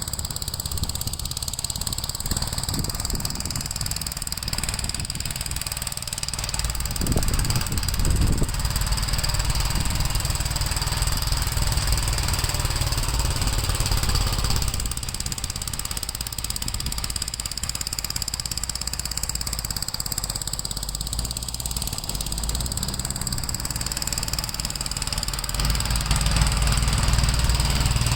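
Gravely L8 walk-behind tractor's engine running steadily while pushing snow, with a steady high whine above it. It gets louder briefly about seven seconds in and again near the end.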